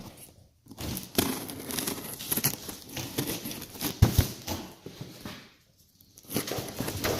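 Crinkling and rustling of material being handled, with small clicks and knocks, pausing briefly about six seconds in.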